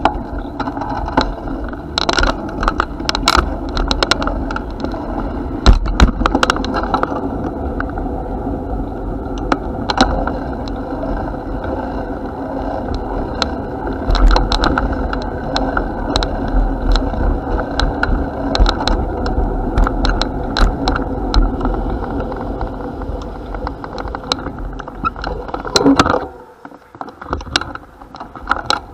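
Bicycle being ridden: tyres rolling on the path, with the chain and frame rattling and clicking over bumps and wind rumbling on the microphone. The noise drops off briefly near the end before picking up again.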